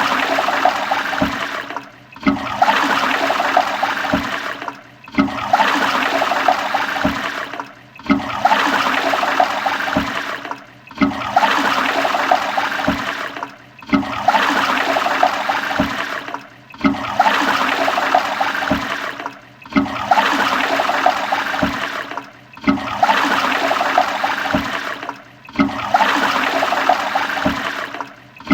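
Toilet flushing over and over: a loud rush of water about three seconds long, starting strong and easing a little. Each flush cuts off sharply and the next begins at once, about ten times in a row.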